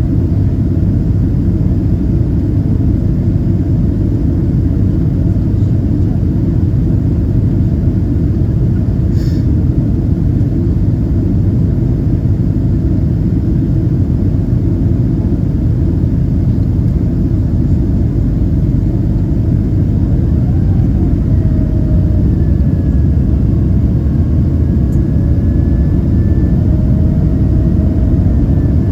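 Cabin noise inside a Boeing 767-332ER jet airliner in flight: a loud, steady low rumble of engines and airflow. A faint wavering tone comes in over the last third.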